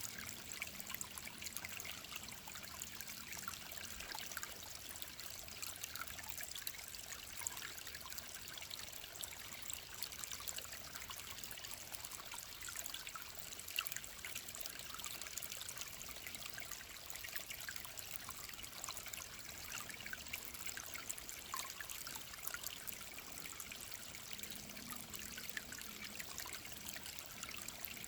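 Mountain stream trickling steadily, with a continuous patter of tiny splashes.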